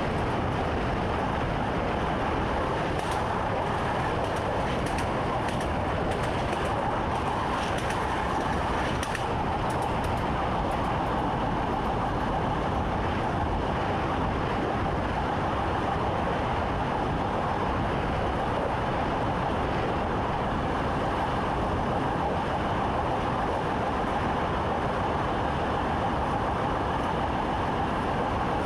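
Steady running noise of a train heard from inside the driver's cab: an even, unbroken rumble and hiss with a hum in the middle range.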